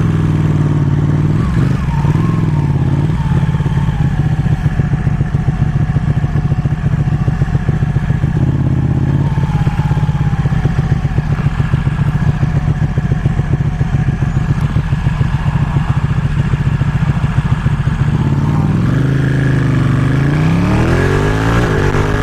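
Ducati 1199 Panigale's V-twin engine running at steady cruising revs, its pitch dipping and then climbing near the end as it is revved up again.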